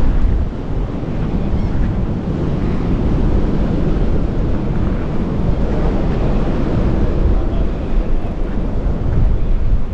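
Strong wind buffeting the microphone in a loud, uneven rumble, over the wash of breaking surf.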